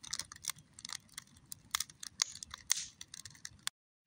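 Wood campfire crackling, with irregular sharp pops and snaps over a low rustle of burning; the sound drops away abruptly near the end, leaving only a few faint pops.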